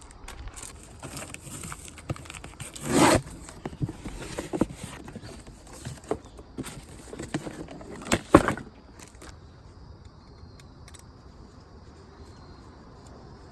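Objects being handled at close range: scattered clicks and knocks, with two louder short scraping sounds, one about three seconds in and one near eight seconds, then it goes quiet.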